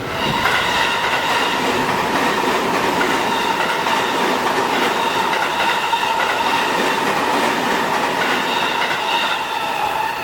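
A Seibu 20000 series electric train passing through a level crossing: a steady, loud run of wheels on rail with a high ringing whine over it, easing off near the end.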